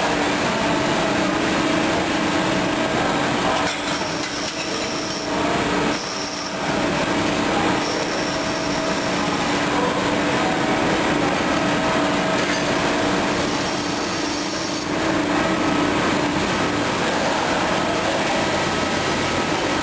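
Steady running noise of CNC machining and automation equipment, a constant hum with a dense hiss. Brief high whines come in a few times.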